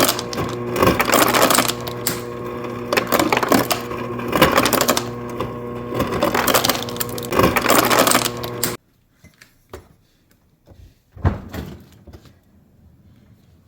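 Refrigerator ice dispenser motor running with a steady hum under a dense rattling clatter of ice being crushed and dispensed. It stops abruptly about nine seconds in, leaving a few light knocks and one louder thump.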